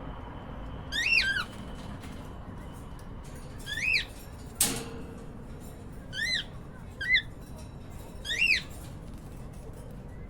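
Cockatiel chirping: five short calls spread over several seconds, each a quick rise and fall in pitch. A single sharp tap about halfway through.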